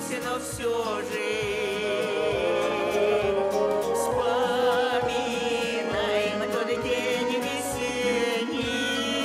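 A song: a voice singing long notes with vibrato over instrumental backing with a steady beat.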